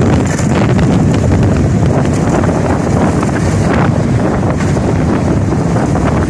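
Wind buffeting the microphone: a loud, steady low rumble with small crackles throughout.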